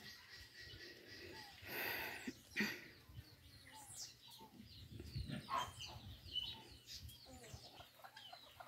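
Faint birds chirping and calling in short, scattered notes, with a brief rustle about two seconds in.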